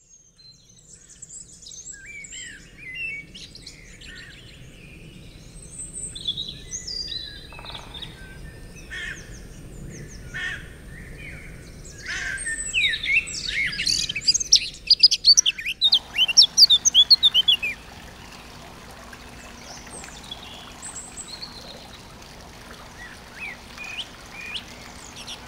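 Birdsong: several small birds chirping and singing, with a dense run of loud, rapid, downward-sweeping chirps from about twelve to eighteen seconds in.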